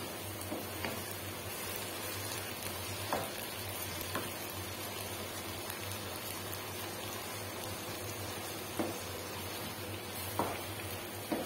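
Gourd, onion and tomato sizzling as they sauté in a nonstick wok, stirred with a wooden spatula that knocks against the pan a few times, over a steady low hum.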